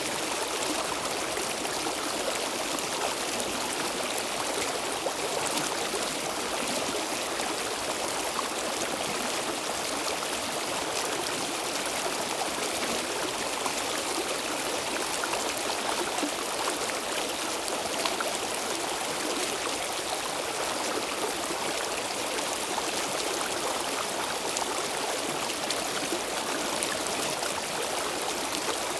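Stream water flowing and trickling steadily over stones, an even rushing without breaks.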